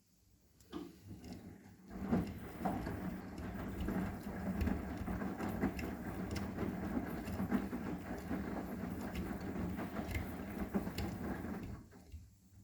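Arçelik 9120M washing machine's drum turning in a wash cycle: a steady motor hum with a busy clatter of tumbling laundry. It begins faintly about a second in, fills out a second later, and stops abruptly near the end as the drum pauses.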